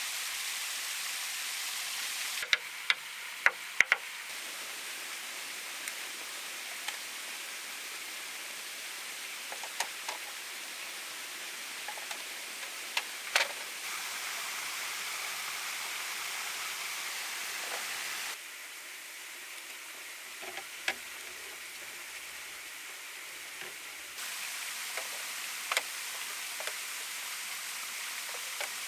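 A steady hiss with scattered sharp knocks and taps, a few of them in quick succession near the start. The hiss changes level abruptly several times.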